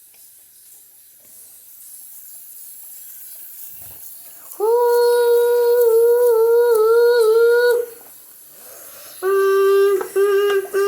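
A voice holding a long, slightly wavering note for about three seconds, then another slightly lower held note near the end, broken into short pieces.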